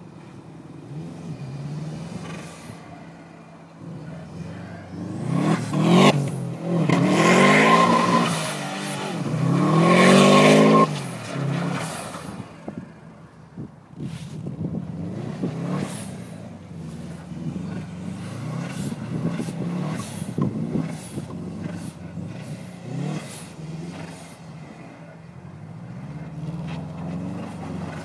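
Subaru's engine revving hard as the car spins doughnuts: two long rises in pitch in the first half, the loudest part, then lower, choppier revving as it keeps circling.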